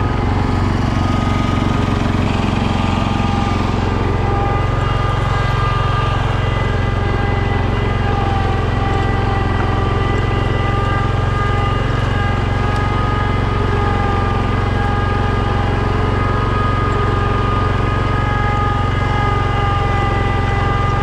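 Small garden tractor engine running steadily under load, with a steady high whine over the engine note.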